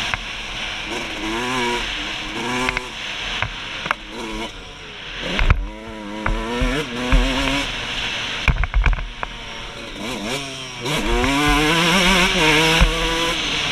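2003 Suzuki RM125's two-stroke single-cylinder engine revving up and down again and again as the bike is ridden hard, with several heavy low thumps along the way.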